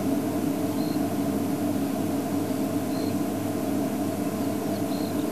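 Steady low engine hum of an idling game-drive vehicle, with a short, faint, high bird note repeating about every two seconds, three times.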